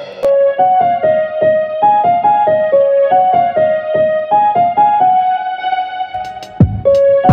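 Background music: a light electric piano melody of quick repeated notes.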